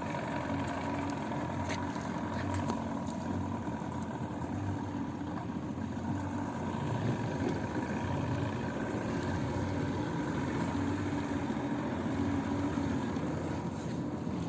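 Two-stroke outboard motor running steadily at an even speed, with a steady rushing hiss over it.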